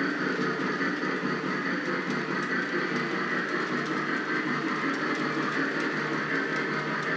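Lionel O gauge Union Pacific model locomotive running slowly on FasTrack, a steady motor-and-wheel running sound with faint ticking.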